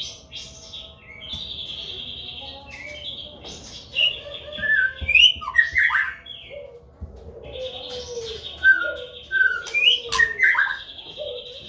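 White-rumped shamas calling in their breeding cage: two loud bouts of sharp whistled and harsh down-sweeping notes, about four and nine seconds in, typical of an agitated male. Under them a steady buzzy trill and low cooing notes run on.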